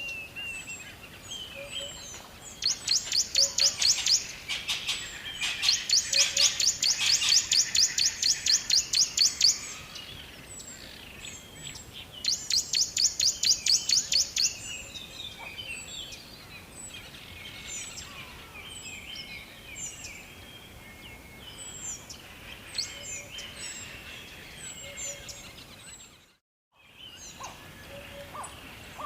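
Songbirds chirping, with one bird giving long runs of rapid, loud, high repeated notes three times in the first half, and many fainter short chirps throughout over a faint steady hiss. The sound cuts out briefly near the end.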